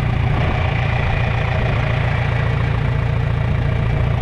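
John Deere 3010 propane tractor's four-cylinder engine idling steadily with an even low pulse.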